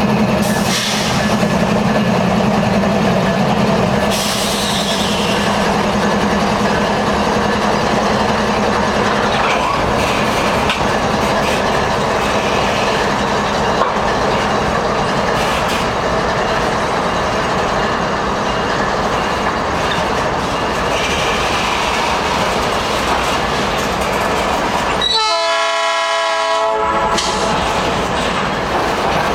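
CN diesel freight locomotives passing with their engines running, then freight cars rolling by with steady wheel and rail noise. A short pitched sound comes near the end.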